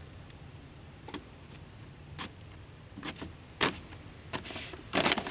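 Scattered short clicks, taps and brief rustles of hands working on a car's inner door, with its plastic parts and vapour barrier being handled; the loudest clatter comes near the end.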